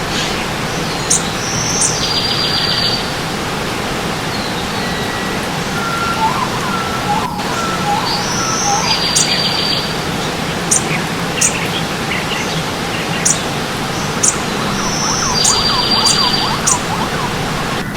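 Forest birds singing over a steady rush of stream water: sharp high chirps every second or so, a short buzzy trill repeated three times about six seconds apart, and softer whistled notes in the middle and near the end.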